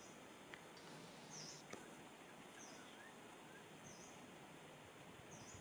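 Near silence: faint outdoor ambience with a few short, high chirps from a small bird, roughly one every second and a bit.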